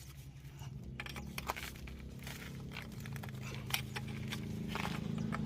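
A low, steady machine hum that grows gradually louder, with scattered light clicks and taps of hand work over it.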